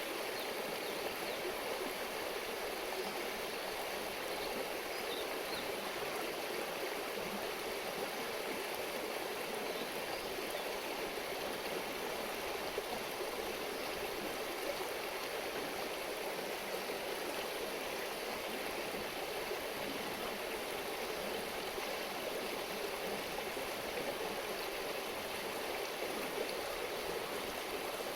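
A river stream babbling steadily, an even rushing murmur of running water throughout.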